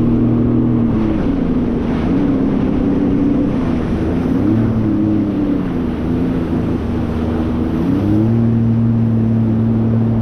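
Jet ski engine running at speed over the rushing of water, its pitch dropping about a second in, wavering up and down, then climbing back near the end.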